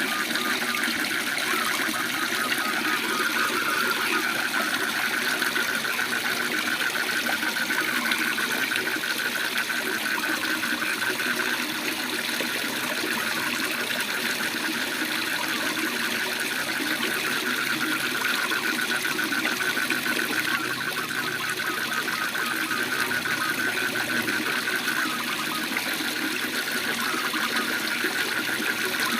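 Waterfall rushing steadily, with a continuous fast pulsed trill of calling frogs over it.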